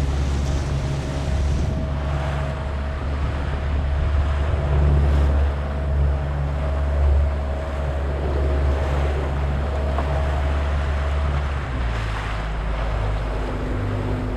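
Wind buffeting the microphone over the sound of sea water around a small boat, with a steady low hum underneath.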